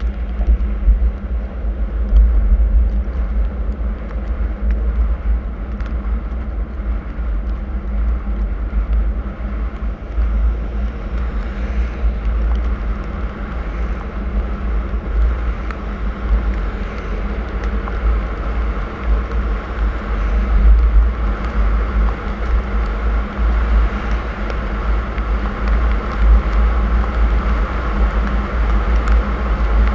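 Steady low rumble of a car being driven, engine and tyre noise with a hiss that grows somewhat stronger about halfway through.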